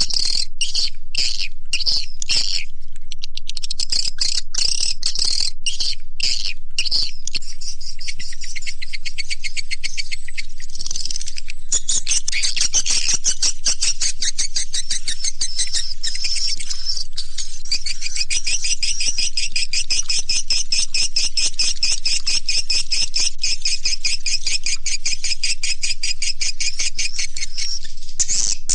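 Swiftlet call recording, a lure played to draw swiftlets into a nest house. It is loud, dense, rapid high twittering chirps, broken by short gaps over the first several seconds, then running as an unbroken stream.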